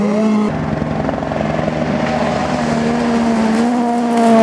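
Rally car engine running hard at high revs as the car passes, a steady note that rises and grows louder near the end.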